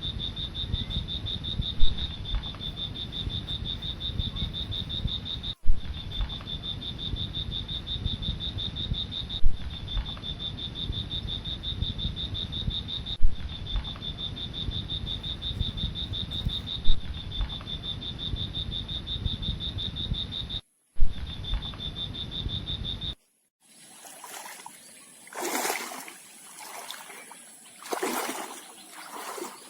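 A steady, high, pulsing insect trill over low rumbling noise, broken every few seconds by short dropouts that each begin with a loud click. About 23 seconds in it switches to water splashing and sloshing in separate bursts.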